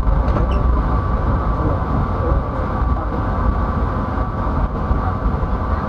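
Steady rumble of a moving passenger train's wheels on the rails, heard inside the carriage, with a thin steady hum over it.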